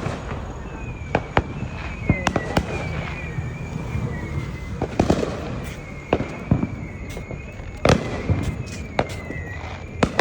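Neighborhood fireworks going off: many sharp bangs and pops at irregular intervals over a low rumble, with a faint high wavering whistle through most of it.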